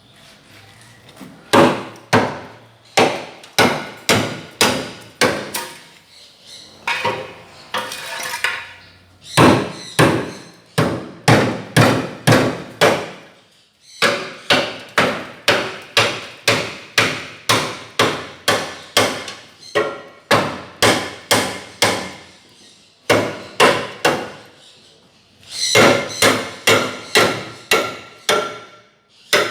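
Hammer blows, struck about twice a second in runs of several strikes with short pauses between runs.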